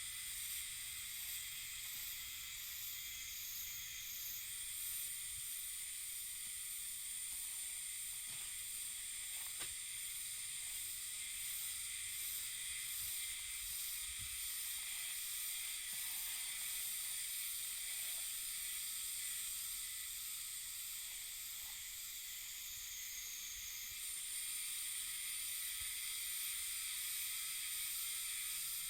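Cicadas droning in a steady, high, shrill chorus, the tone dipping lower briefly twice.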